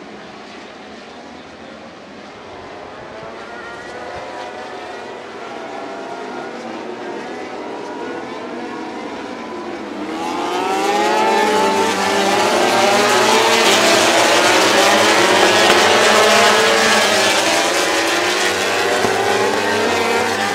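A pack of MotoGP racing motorcycles passing, many engine notes overlapping and rising and falling in pitch as the riders shift and accelerate. The sound builds steadily and becomes loud and dense from about ten seconds in as the bulk of the field goes by.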